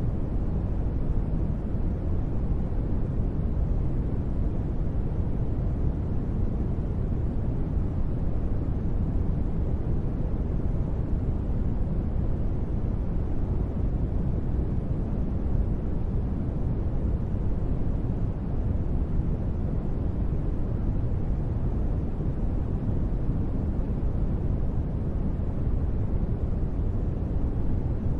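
Steady, unbroken noise heavy in the low end and thinning out toward the highs, like a deep hiss or rumble: a synthetic noise bed for space ambience. It has no pitch, no rhythm and no separate events.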